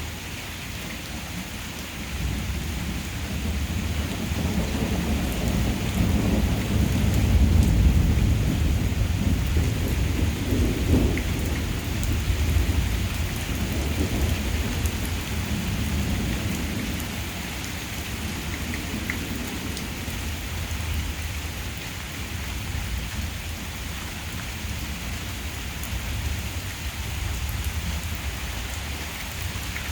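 Rain falling steadily during a thunderstorm, with a long roll of thunder that builds from about two seconds in, is loudest a little later, and dies away over the next ten seconds or so.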